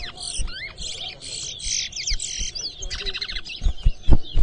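Caged towa-towas (chestnut-bellied seed finches) singing in competition: fast runs of high, sweet whistled notes and trills, one phrase after another. A few loud low thumps near the end.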